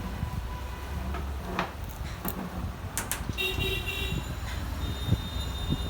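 Vehicle horn sounding over a steady low traffic rumble, the horn starting a little past halfway.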